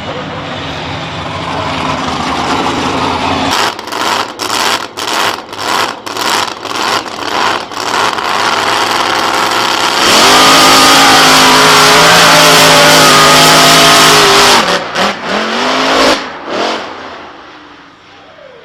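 Monster truck engine running, then blipped hard about twice a second, then held at full throttle for about four seconds, the loudest part. It then drops off with a few last blips and fades away.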